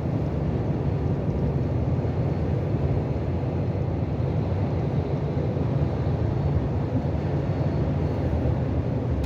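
Steady low drone of a lorry's cab on the move at highway speed: engine and road noise.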